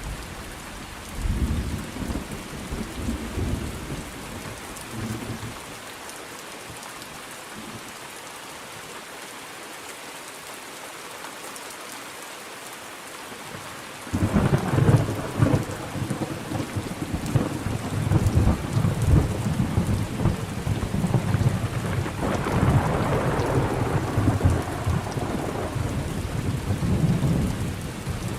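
Thunderstorm: steady heavy rain with rolling thunder. Low rumbles die away in the first few seconds, leaving only rain, then about halfway through a loud peal of thunder breaks in suddenly and rolls on in long low rumbles.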